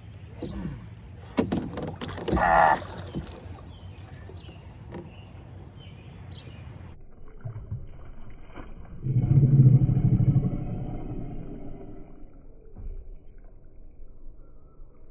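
Knocks, scrapes and water splashing against an aluminium-free hollow canoe hull as a large bass is landed, with a loud low hollow rumble about nine seconds in that fades over the next few seconds.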